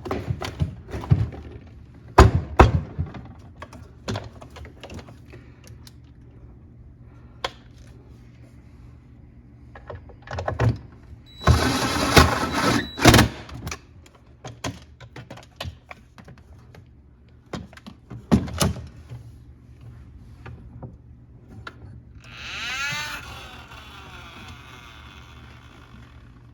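Scattered clicks and knocks of parts being handled during hands-on repair of a refrigerator's ice dispenser, with a loud clattering stretch in the middle. Near the end there is a brief swishing sound.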